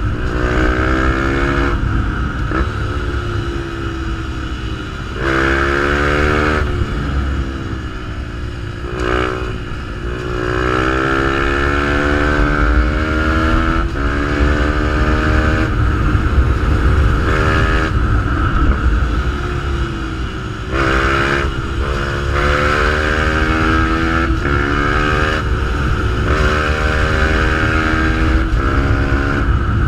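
Fantic 125 supermotard's single-cylinder engine through a GPR aftermarket exhaust, being ridden hard. Its pitch climbs repeatedly and drops sharply at gear changes and when the throttle is closed.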